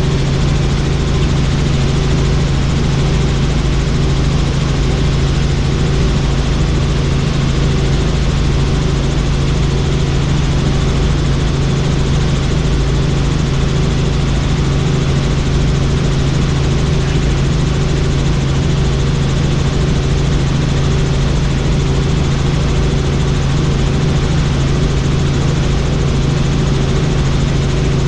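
Helicopter in flight: a steady, loud turbine and rotor drone with a low hum and a faint regular pulse from the blades, unchanging throughout.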